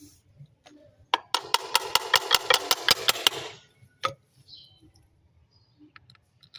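Rapid rhythmic scraping, about five strokes a second for a little over two seconds, followed by a single sharp knock and a few faint ticks.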